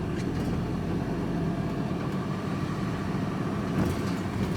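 Van engine running steadily at low revs, a low even hum heard from inside the cab.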